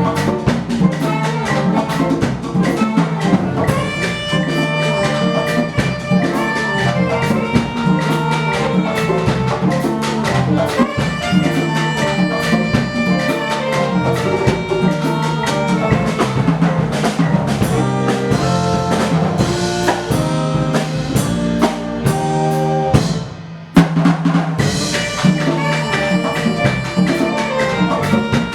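A live ensemble plays Afro-Cuban percussion music, with drums keeping a steady beat under held notes from pitched instruments. About 23 seconds in the band drops out briefly, then comes back in on a loud accent.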